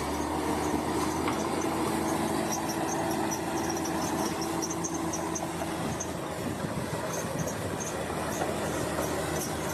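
Crawler bulldozer at work: its diesel engine runs steadily, with a dense clatter and many short, high metallic squeaks from the steel tracks.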